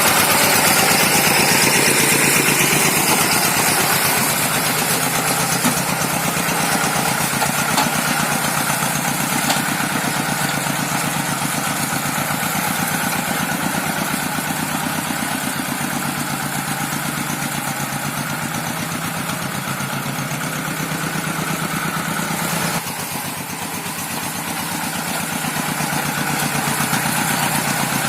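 Rice-paddy tractor's engine running steadily as it levels a field, easing off for a moment about two-thirds of the way through and then picking up again.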